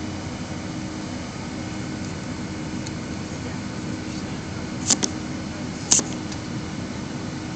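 Steady hum of an airliner cabin on the ground before the takeoff roll: engines and air conditioning running. Two short sharp clicks about five and six seconds in.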